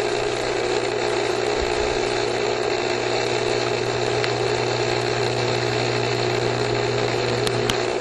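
Swimming pool pump running steadily, its electric motor humming while it circulates water from the pool through a salt chlorine generator.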